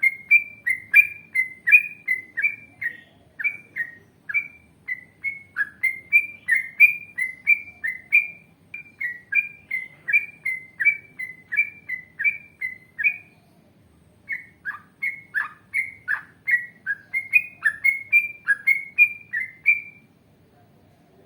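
Yellow-vented bulbul (trucukan) singing a long, fast run of short whistled notes, about two or three a second, with a brief pause about two-thirds of the way through and a stop near the end.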